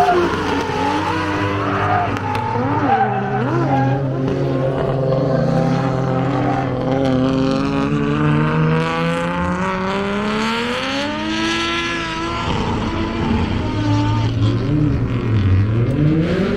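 Drift car's engine revving up and down under hard driving, with one long climb in pitch that is cut off sharply about two thirds of the way through, then rising again near the end.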